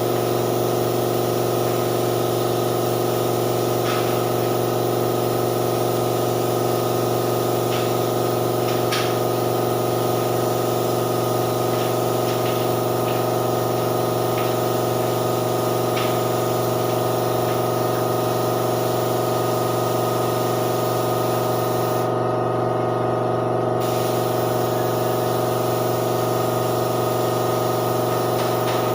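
An air compressor runs with a steady hum while a paint spray gun hisses. The hiss cuts out for a second or two about two-thirds of the way through, then resumes, as the trigger is released and pulled again. A few light clicks come earlier.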